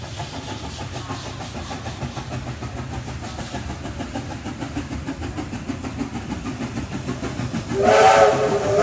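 Steam locomotive 3642, a C36 class 4-6-0, approaching and passing with a rapid rhythmic beat that grows louder, then sounding its steam whistle near the end.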